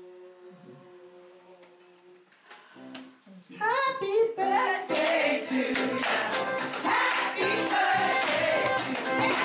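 A faint held tone fades, then a group of singers starts a gospel song about three and a half seconds in. From about five seconds they are in full voice, with a tambourine-like shaking beat.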